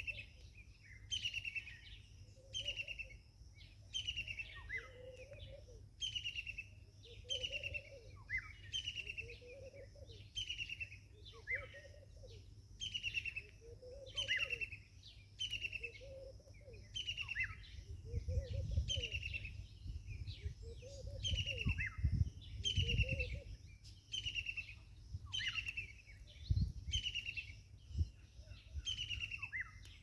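Wild birds calling: one repeats a short, high, downward-sliding note a little more than once a second, over and over. A second, much lower note repeats about once a second until about two-thirds of the way through, and a few low thuds come in the second half.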